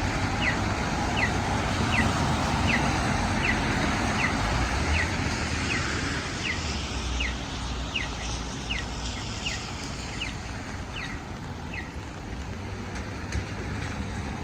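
Steady road-traffic noise from passing cars, with a low rumble that eases toward the end. Over it, a short high chirp repeats a little under twice a second and stops near the end.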